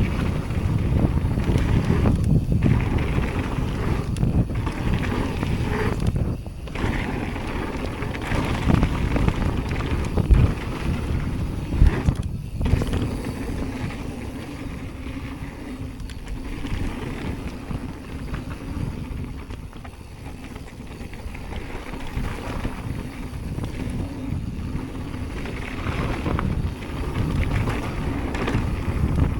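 Mountain bike being ridden fast down a dirt trail: wind buffeting the microphone over a rough rumble of tyres and rattling bike. Two sharp knocks stand out about ten and twelve seconds in, and it eases off for a while around the twenty-second mark before picking up again.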